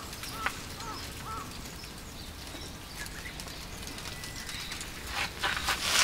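A bird calling a quick series of short, repeated arched notes over about the first second and a half, over a quiet outdoor background. Near the end there is a loud rustling as things are handled on the table.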